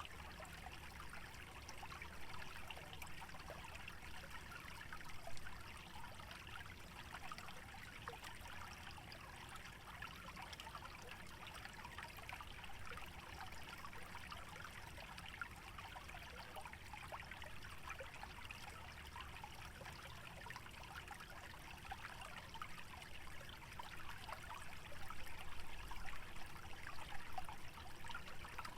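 Shallow stream trickling steadily through a wetland, with low wind rumble underneath; the trickling grows a little louder near the end.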